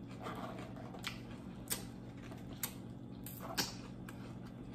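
Faint, crisp crunches of chewing loaded tortilla chips: about five sharp, separate cracks spread over a few seconds, over a steady low hum.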